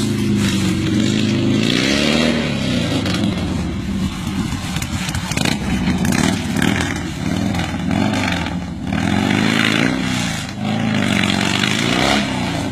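Harley-Davidson V-twin engine in a Wide Glide–converted ATV running through straight pipes with no mufflers. The revs rise and fall several times.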